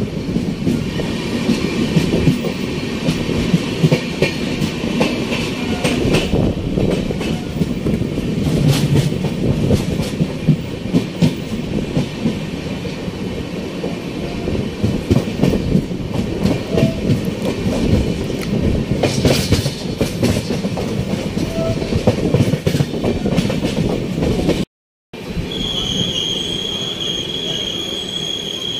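Passenger express train running along the track, heard from an open coach door or window: a steady rumble with wheels clicking over rail joints and occasional sharp clacks. After a brief cut near the end, the wheels give a steady high-pitched squeal.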